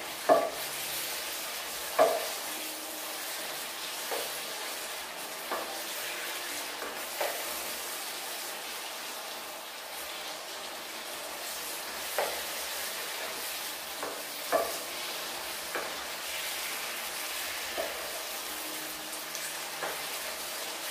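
Chicken frying in a butter and tomato sauce, with a steady sizzle, as a wooden spatula stirs it and knocks against the pan every second or two.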